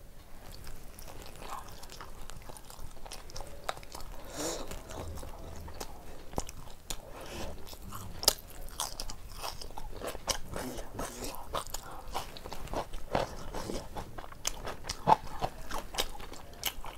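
Close-up chewing and biting of tandoori roti with mutton keema: irregular wet mouth clicks throughout, with a couple of sharper clicks about eight and fifteen seconds in.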